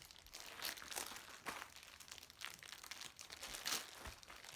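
Squishy toys' packaging crinkling and rustling in irregular crackles as it is handled and unwrapped.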